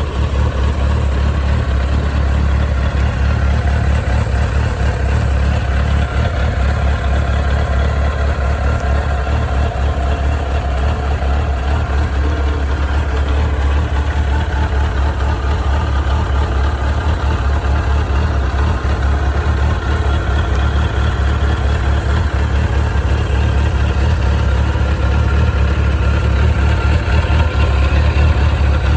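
1994 Suzuki RF900's inline-four engine idling steadily, a little louder over the last few seconds.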